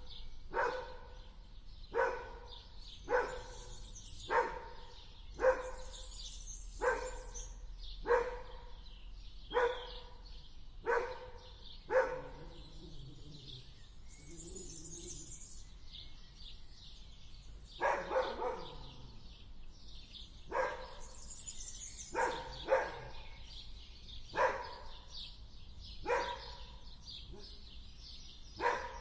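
An animal giving short, pitched calls, one about every second, in two runs separated by a pause of several seconds. Birds chirp faintly throughout.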